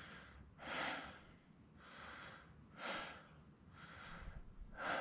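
A person breathing heavily and faintly, breaths coming about once a second, out of breath after the climb up the mountain.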